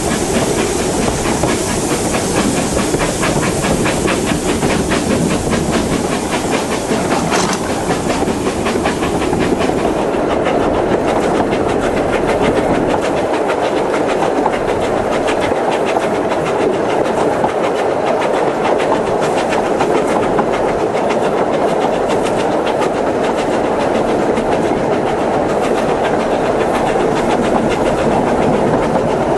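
Narrow-gauge steam train running along the line: a steady rumble from the carriage with the wheels clicking rhythmically over the rail joints. A steam hiss rides on top for roughly the first ten seconds, then fades.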